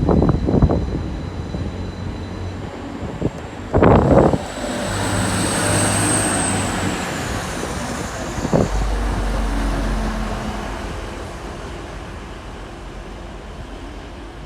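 A train running through a railway station: a steady rumble with a short loud knock about four seconds in and a thin high squeal that fades out about seven seconds in. A low hum starts about nine seconds in.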